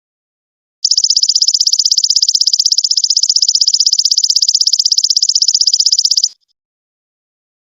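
Belalang emas ('golden locust') insect calling: a loud, high, rapidly pulsing buzzy trill. It starts about a second in, runs for about five seconds and cuts off suddenly.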